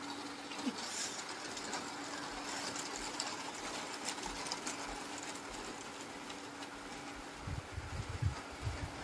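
Heavy rain falling, an even hiss with scattered faint ticks of drops, over a faint steady hum. About seven and a half seconds in, a run of low thumps comes in.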